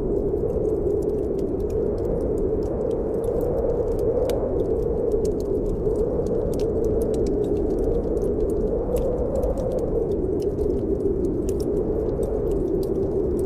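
Snowstorm wind blowing steadily, swelling and easing slowly, mixed with a wood fire crackling in many small, irregular pops.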